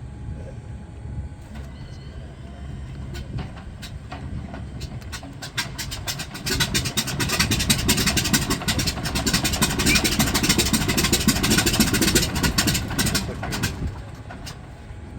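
Corsair's Pratt & Whitney R-2800 radial engine running on the ground with crackling exhaust pops. It comes up to a louder, denser run about six and a half seconds in and eases back down near the end.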